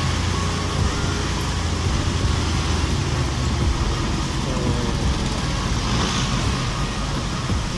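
Steady wind buffeting on an earphone microphone at the rider's chin while riding a Honda RS125 FI motorcycle, with road and traffic noise underneath.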